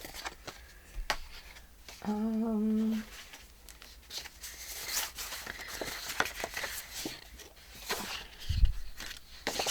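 Sheets of paper and envelopes rustling and crinkling as they are handled on a worktable, with small clicks of paper against paper. A short hummed note comes about two seconds in, and a low thud near the end.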